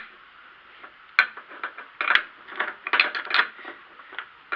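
Wrench working the top nut of a car's front shock absorber loose, in irregular metallic clicks and short rattling runs. There is a single click about a second in, clusters around two and three seconds, and another click near the end.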